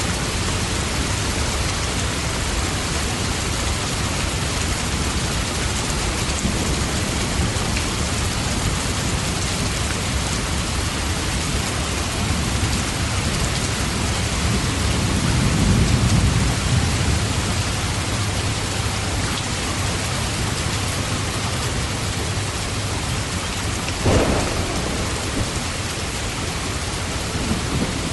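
Steady rain, with a low rumble of thunder swelling and fading about halfway through and a sharp crack near the end.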